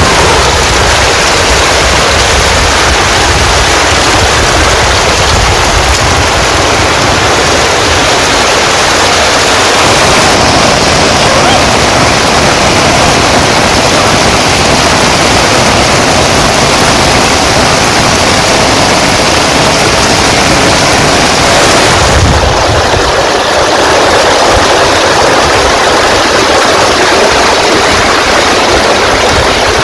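Heavy rain pouring down, a loud, steady rushing hiss. The tone of the rain shifts about ten seconds in and again a little past twenty seconds.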